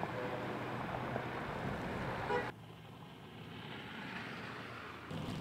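Steady outdoor noise, like passing road traffic, with a short faint tone just before it cuts off abruptly about halfway through to a quieter hiss; the louder noise returns near the end.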